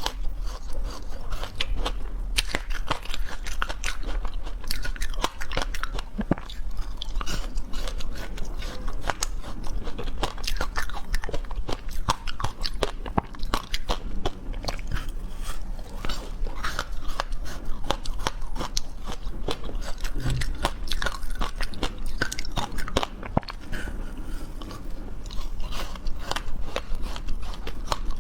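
Close-up chewing and crunching: a dense, irregular run of crunchy clicks over a steady low rumble.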